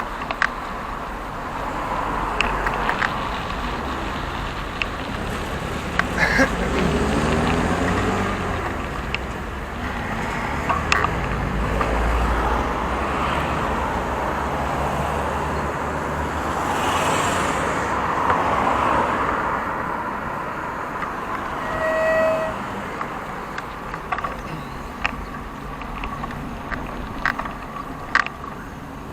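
Road traffic noise from passing cars, one engine rising and falling in pitch as it goes by, and a short car horn toot about twenty-two seconds in.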